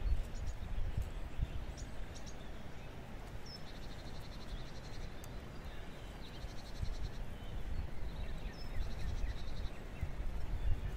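A small songbird repeating a short high phrase about every two and a half seconds: a brief note followed by a fast, even trill. A low rumble runs underneath.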